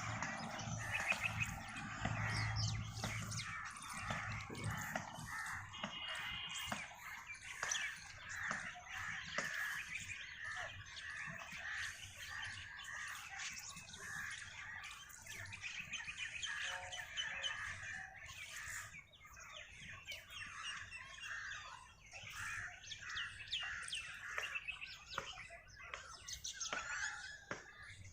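Several birds chirping and calling at once in a continuous, busy chorus of short rising and falling notes, with a low hum underneath for the first few seconds.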